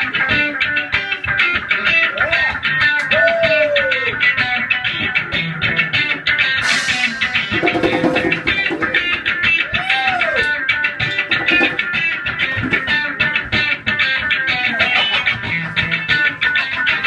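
Live guitar music with no vocals: a dense stream of quickly picked notes runs throughout, with a few notes gliding in pitch.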